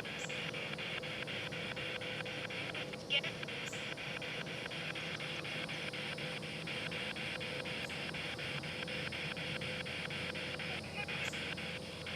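Spirit box sweeping through radio stations: a steady hiss of static chopped by evenly spaced clicks, about four a second, with a brief louder blip about three seconds in.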